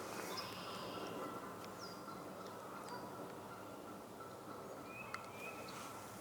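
Faint woodland birdsong: a few short, high, sharply falling call notes from birds, over steady quiet background noise, with one brief click about five seconds in.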